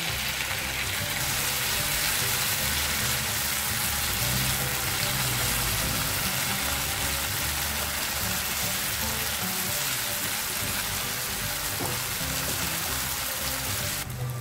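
Spice-coated prawns frying in coconut oil in a nonstick pan, a steady sizzle, as they are turned over with a wooden spatula.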